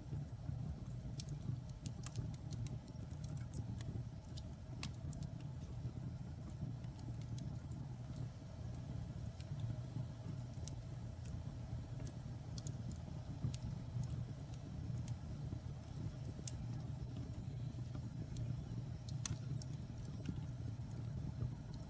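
Wood fire burning in a fireplace: a steady low rumble of flames, with irregular sharp crackles and pops from the burning logs.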